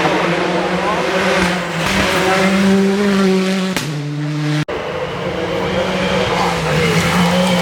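Rally car engines running hard at high revs, the pitch stepping up and down as the cars go through the stage. The sound cuts out abruptly for an instant about halfway through, then an engine note picks up again.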